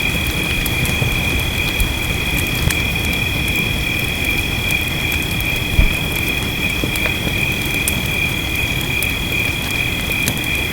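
Fireplace crackling with scattered sharp pops over a steady low hiss of rain, under a continuous high-pitched chorus of night creatures. One louder low pop or thump from the fire comes about six seconds in.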